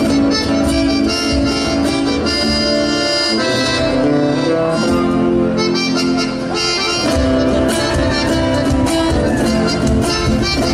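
Chamamé played by a band, led by accordion, with held notes over a steady low beat.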